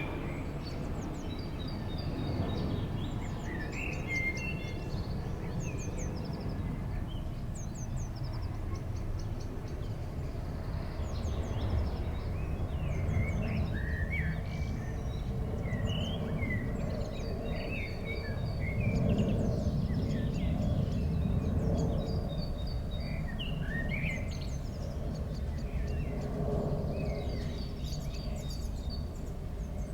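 Songbirds chirping and trilling in short repeated phrases over a steady low background rumble, which swells a little about two-thirds of the way in.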